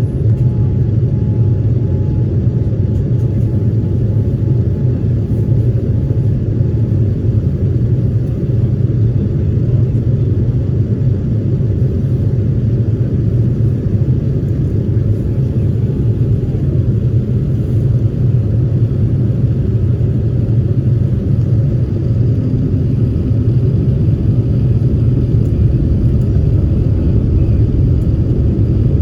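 Airliner cabin noise in flight: a steady, deep rumble of the jet engines and the airflow past the fuselage.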